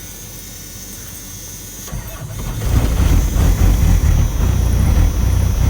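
Old Dodge truck's diesel engine starting cold on a jump start: it cranks briefly about two seconds in, catches, and then runs steadily and loud.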